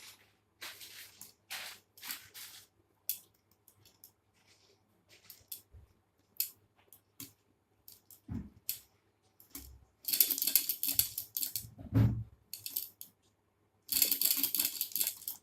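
Scattered metallic clicks and light rattles from handling a small hot air engine, under a faint low hum, with busier stretches of clattering about ten seconds in and again near the end.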